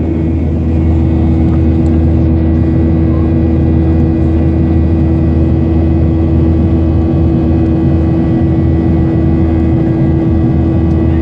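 Steady cabin noise of a Boeing 737-800 in flight: the CFM56 turbofan engines' even drone with a constant low rumble and a fixed hum.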